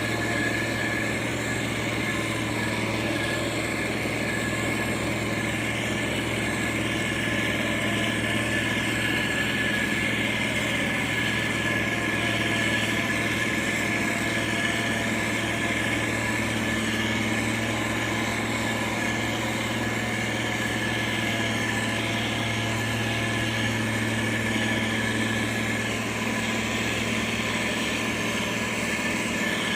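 Diesel engine of a heavy road-building machine running steadily at an even speed, with a constant low hum and no revving or impacts.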